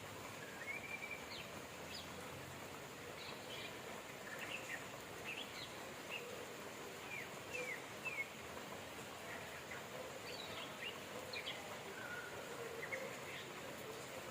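Birds chirping in short, scattered calls and quick falling whistles over a steady hiss of rain.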